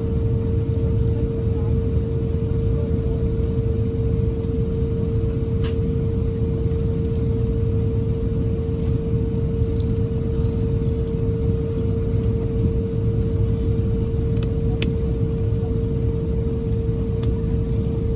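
Steady cabin rumble of an Airbus A350-1000's Rolls-Royce Trent XWB engines and airflow during takeoff and climb, heard from inside the passenger cabin, with a constant mid-pitched hum over it.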